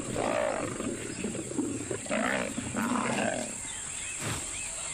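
Male lions snarling and growling in a short scuffle as one male asserts dominance over the other; the snarls stop about three and a half seconds in. After that a high, arching chirp starts and repeats about twice a second.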